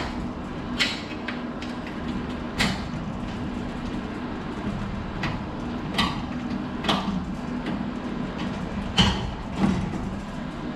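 Scattered sharp metal clicks and knocks as a garage door's lift cable is worked onto its drum and hooked on, over a steady low hum.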